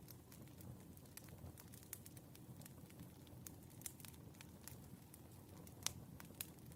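Burning firewood crackling, with scattered irregular pops over a low steady rumble; the sharpest pop comes about six seconds in.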